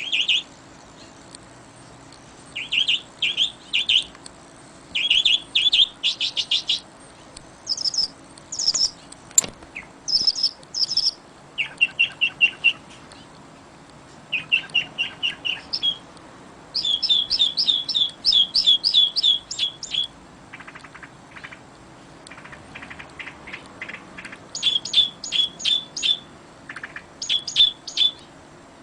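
Songbirds singing: quick runs of repeated high chirps, phrase after phrase with short gaps between them. A single brief click comes about nine seconds in.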